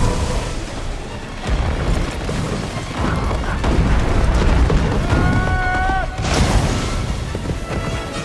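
Film sound design of an avalanche: a heavy, continuous low rumble of crashing snow under an orchestral score, with a short high cry about five seconds in.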